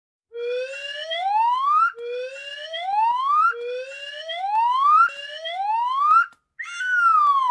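Whistling sound effect that glides up in pitch four times in a row, about a second and a half each, then makes one longer downward glide near the end.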